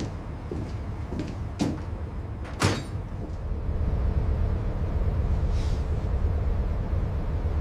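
Low, steady rumble of a ship's engine getting underway, growing louder about halfway through. Two sharp metallic clanks come early on, and there is a brief hiss later.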